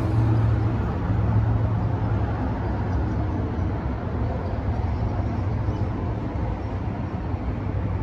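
Nissan Pathfinder's 3.5-litre V6 engine idling, heard from above the open engine bay: a steady low hum with an even mechanical noise over it.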